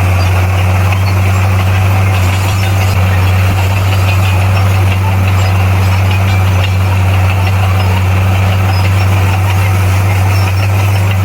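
Bulldozer's diesel engine running steadily, a deep even hum that holds the same pitch and level throughout.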